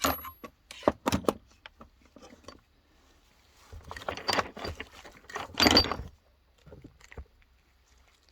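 Small hard parts and tools handled on a workbench: a few sharp clicks and knocks in the first second or so, then about two seconds of clattering and rustling halfway through, and one more click near the end.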